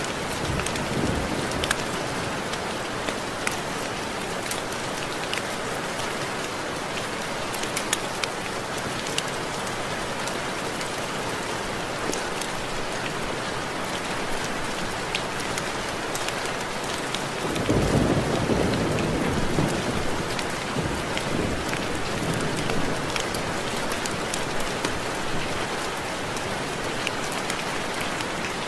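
Steady rain with raindrops ticking against window glass. A low rumble of thunder comes in about two-thirds of the way through and fades over a few seconds.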